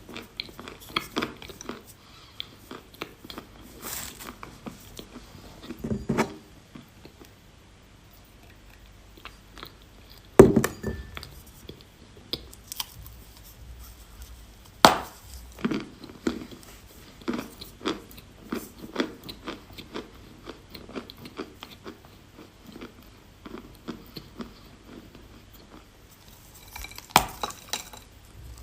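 A person biting and chewing pieces of chalk, close to the microphone: a string of dry crunches, with two loud sharp snaps of a bite about ten and fifteen seconds in.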